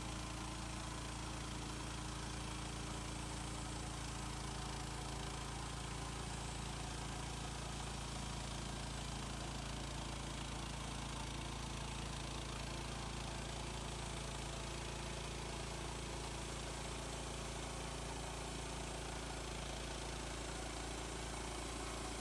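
HM130 Max portable bandsaw mill's engine running at a steady speed, with no change in load.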